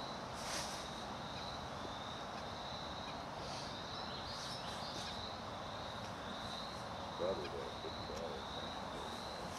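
Insects trilling in high pulses about once a second, steady throughout. About seven seconds in, a short, wavering, low hooting call is the loudest sound, with a fainter repeat about a second later.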